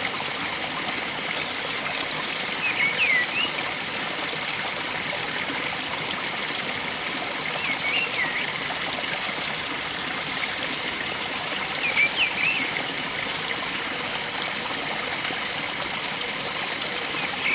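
Steady rush of flowing water, with a bird giving short clusters of quick whistled chirps about every four to five seconds, four times.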